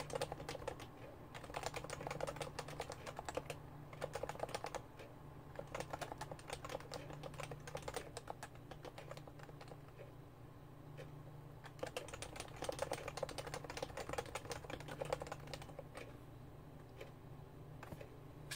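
Typing on a Realforce R2 keyboard with Topre switches: quick runs of soft keystrokes that thin out near the middle, over a low steady hum.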